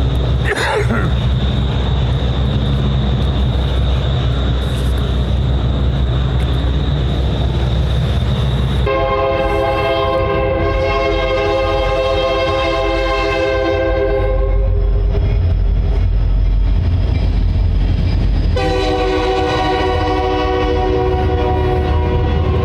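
Union Pacific freight train rumbling past, its locomotive horn sounding a multi-tone chord in two long blasts: one starting about nine seconds in and lasting about five seconds, the second starting near nineteen seconds and still going at the end.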